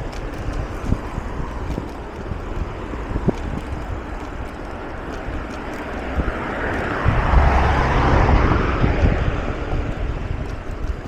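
Wind buffeting the microphone of a mountain bike rider's camera, over low rumble and a few sharp knocks. The rush swells for a couple of seconds past the middle, then eases off near the end.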